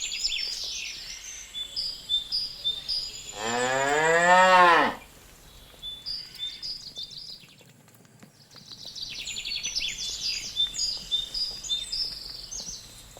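A cow mooing once, a single long call of about a second and a half whose pitch drops as it ends, with small birds chirping before and after it.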